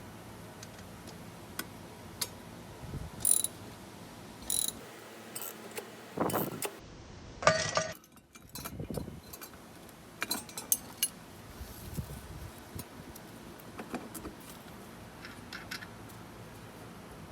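Metal tools clicking and clanking as a steering wheel puller is mounted on the flywheel of a Briggs & Stratton lawn mower engine: scattered sharp clicks, with a handful of louder ringing metal-on-metal clanks in the first half.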